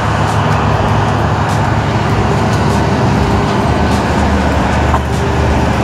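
Steady low hum of an old passenger train's machinery, heard from inside a crowded carriage.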